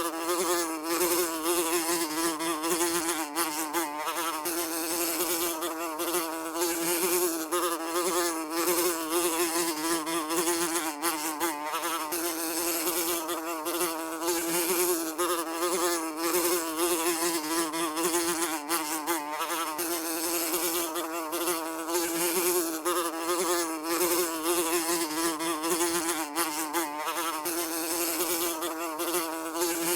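A housefly buzzing without a break, a steady wavering drone whose pitch wobbles slightly up and down.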